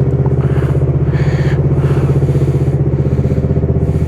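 Suzuki GSX-S125's single-cylinder engine idling steadily through a Mivv GP Pro aftermarket exhaust, a fast even exhaust pulse with no revving.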